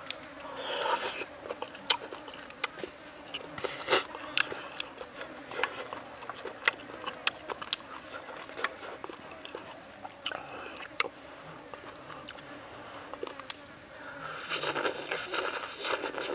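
Close-up eating sounds: a man chewing fried pig's groin, with many sharp wet mouth clicks and smacks. Denser chewing about a second in and near the end.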